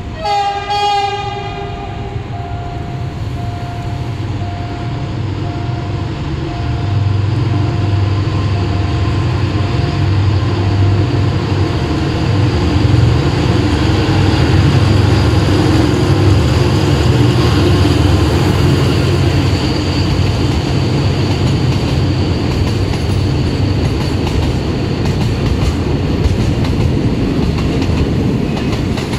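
Thai State Railway (SRT) diesel train sounding its horn briefly about a second in, then running past with a loud, steady low rumble that builds over the first several seconds.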